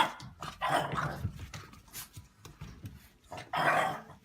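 A dog making several short vocal bursts, growl- or bark-like, about four of them spread across a few seconds.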